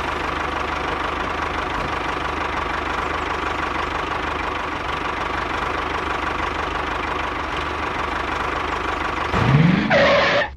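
Mini tractor engine running steadily at idle after being started, with a faint steady whine over the low chugging. Near the end a louder rising sweep lasts about a second and then cuts off.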